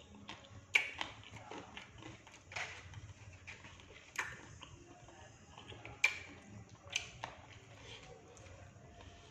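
Close-up eating sounds of fried batagor (fried fish-cake dumplings): chewing and crunching with sharp clicks every second or two.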